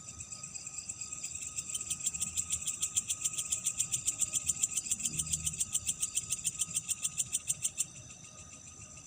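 A night insect calling in a fast, even pulsed trill, about eight pulses a second. The trill swells over the first couple of seconds and stops abruptly near the end, over a steady high-pitched chorus of other night insects.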